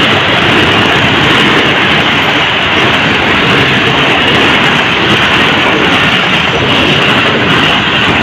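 Passenger train coaches passing close by at speed: a loud, steady rush of wheel and rail noise.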